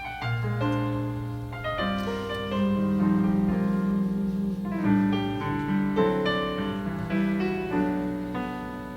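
Jazz piano playing a slow ballad introduction in sustained chords that change every second or so.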